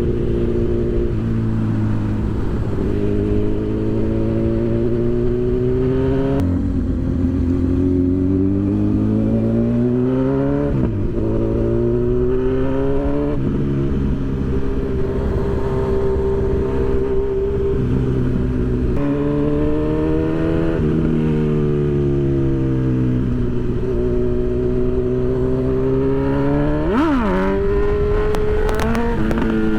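Honda CB1000R motorcycle's inline-four engine pulling through the gears on short runs. Its pitch climbs under throttle and drops at each gear change or when the rider backs off, with a quick sharp rev and fall near the end.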